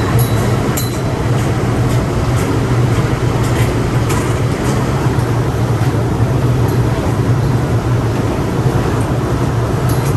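Inside an MTR M-Train carriage: a steady low rumble from the train's running gear and equipment, with a few faint clicks and no clear thumps.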